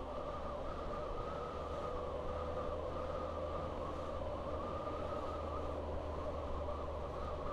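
Suzuki GSF1250 Bandit's inline-four engine running at a steady, even pace while the motorcycle is ridden, over a haze of wind and road noise.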